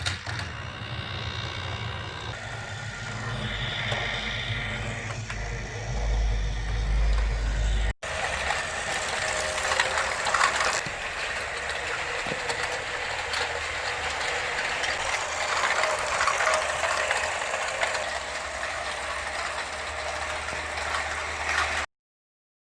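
Toy electric subway train running, its small motor whining and gears buzzing. After a sudden break about eight seconds in, a louder rattling clatter of the plastic toy running along its track, which cuts off abruptly near the end.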